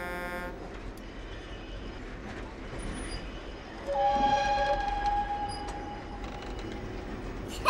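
Train running with a steady rumble; about four seconds in its horn sounds a two-note blast, the lower note dropping out within a second while the higher note holds for a few seconds and fades.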